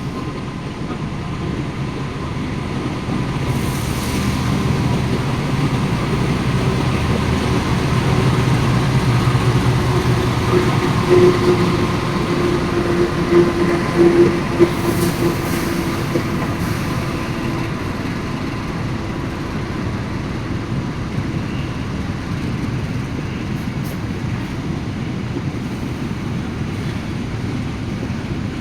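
Empty fuel tank-car train hauled by a diesel locomotive, rolling slowly with the engine running and wheels on the rails. The sound grows louder around the middle, with a steady droning tone, then eases off.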